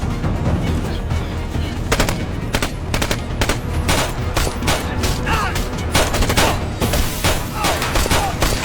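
Shootout soundtrack: rapid gunfire, many shots in quick succession starting about two seconds in, over a low music score.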